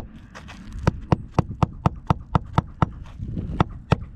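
Hammer blows in a quick, steady rhythm, about four strikes a second, after a couple of scattered blows at the start, typical of working a shingle loose on an asphalt shingle roof.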